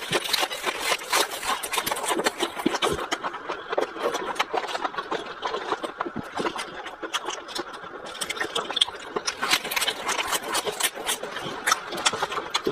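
Close-miked chewing of raw leafy greens: crisp, wet crunching in quick, irregular crackles.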